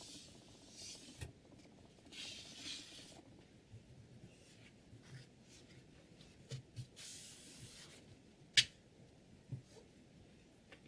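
Sharpening stone on a guided sharpening system drawn along a steel chef's knife edge: three slow, hissing strokes of about a second each, with light knocks between them and one sharp click a little past the middle.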